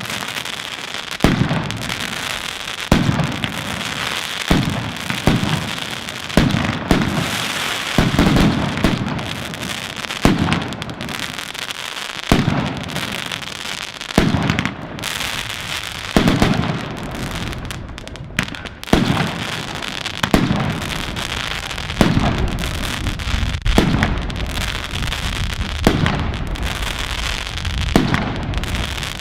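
Fireworks going off in a dense barrage: a loud bang with a booming tail every second or two, over a continuous crackle of smaller firecrackers.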